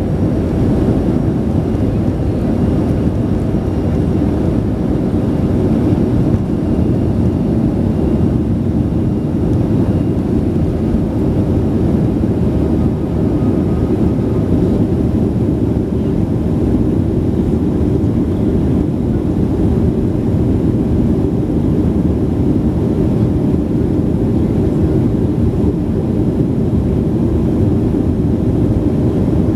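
Boeing 737 engines and airflow making a steady, loud rumble, heard from inside the passenger cabin.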